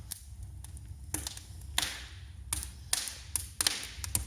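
Firewood burning in a brick fireplace, crackling with sharp irregular pops every half second or so over a low steady rumble.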